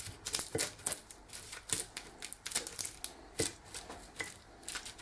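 The soft flesh of a freshly baked jacket potato being mashed up inside its skin: a run of quiet, irregular taps and scrapes.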